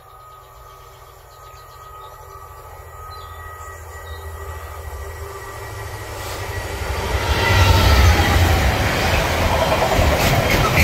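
A GB Railfreight Class 66 diesel locomotive approaches and passes, its EMD two-stroke diesel rumble growing from faint to loud and peaking about seven seconds in. A falling whine comes as it goes by, followed by the sharp clicks of wagon wheels over the rails near the end.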